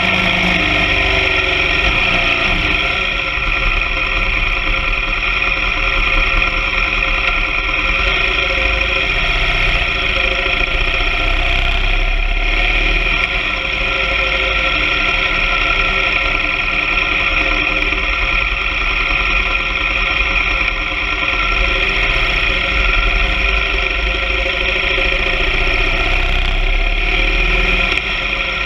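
BMW R 1200 GS Adventure sidecar rig's boxer-twin engine droning at a steady cruising speed, with road and wind noise. The pitch holds unchanged throughout, with no shifting or revving.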